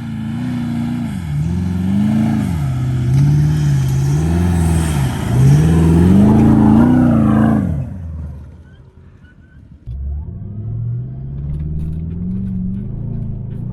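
A 4WD's engine working hard through soft sand, its revs rising and falling repeatedly as the throttle is worked. About eight seconds in the sound drops away sharply for a couple of seconds, then an engine picks up again with steadily climbing revs.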